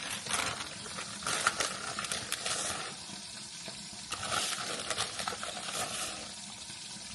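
A spoon stirring and scraping through a creamy pasta sauce in a pot, in two spells, over a steady sizzle from the cooking.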